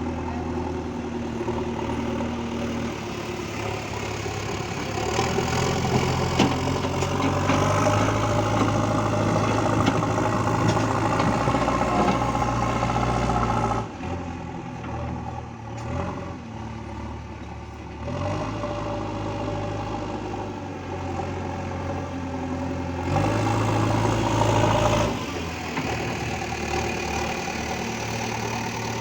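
Diesel engine of a JCB 3DX backhoe loader running under working load. It revs up and drops back to a lower speed several times, with a few sharp knocks over the steady engine note.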